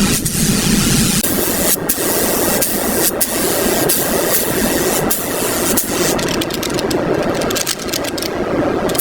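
Car engine running, the sound changing abruptly a few times.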